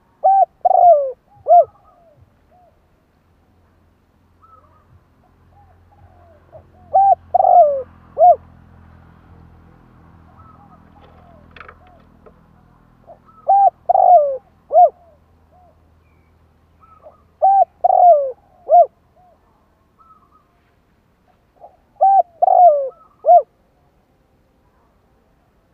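Spotted dove cooing: five phrases of three or four short, falling coos, a few seconds apart.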